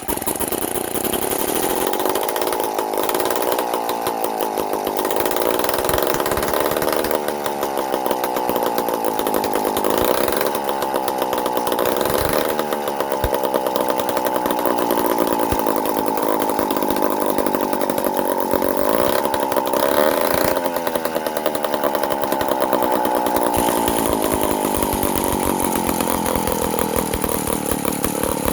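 The two-stroke engine of a 1950s David Bradley chainsaw, built by Strunk, running loud after long storage. Its speed swings up and down unevenly, surging and sagging several times before settling into a steadier, slightly lower run near the end.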